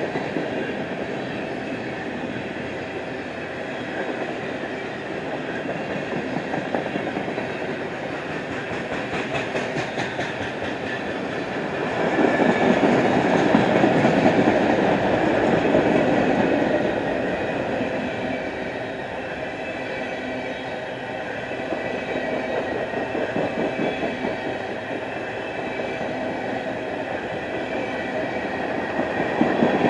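A freight train's empty trash cars rolling past, wheels clicking over the rail joints. The rumble swells louder about twelve seconds in and again near the end.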